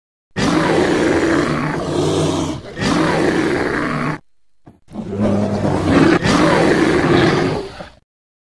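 Imagined Scutosaurus call made as a sound effect: two long, low, rough creature calls, each about three to four seconds, the first with a brief break partway through.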